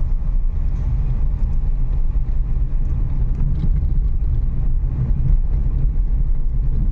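Renault Kiger driven slowly over a rough, broken road, heard from inside the car: a steady low rumble of engine and tyres with faint small rattles and knocks.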